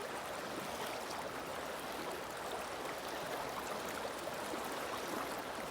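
Woodland river flowing: a steady rush of running water.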